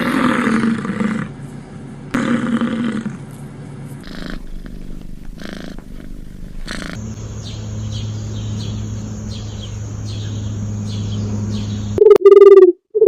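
Tiger roaring twice, a rough growling roar in the first second and another about two seconds in. Later come a steady low hum with faint high chirps, and two loud short pitched animal calls near the end.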